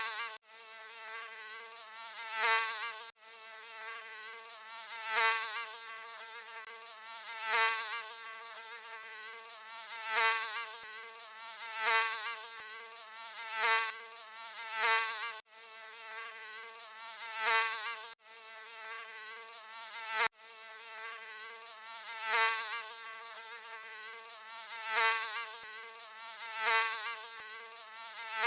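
Mosquito buzzing in flight: a thin, high whine that swells louder and fades back roughly every two seconds, like the insect passing close to the ear. A few times the whine cuts out abruptly for an instant where the recording loops.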